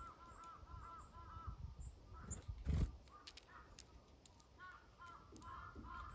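Crows calling in quick runs of short cawing notes: one run at the start and another from about two-thirds of the way through, with a lull between. A low thump sounds near the middle.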